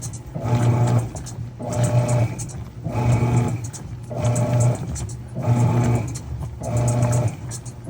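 Mueller Popmatic 8 kg washing machine agitating a load, its motor humming in even pulses about once a second, switching back and forth as the wash action reverses.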